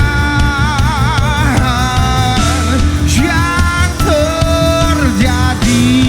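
Live pop-rock band playing, with a male lead vocalist singing long held notes with vibrato over drums, bass and guitars.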